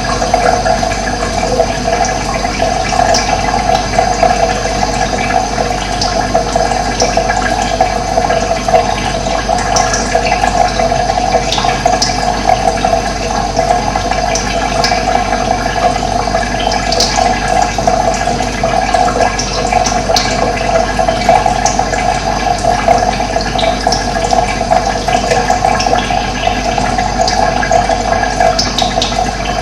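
Steady rush of running water, with a few brief, high bird chirps scattered throughout.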